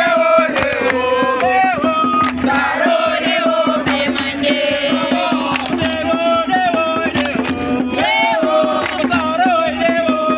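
A group of voices chanting a song together, with sharp percussive hits such as hand claps throughout and a steady low hum underneath.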